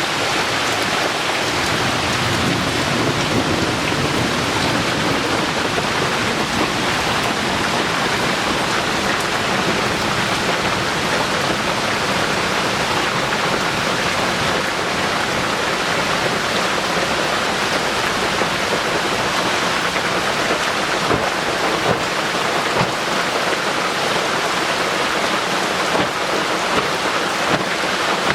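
Heavy tropical rain pouring steadily, with a low rumble of thunder a few seconds in and scattered drips ticking through the downpour.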